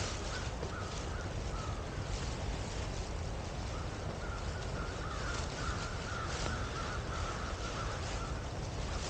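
Harsh, crow-like bird calls in short choppy runs, densest from about four seconds in until near the end, over a steady rushing background noise.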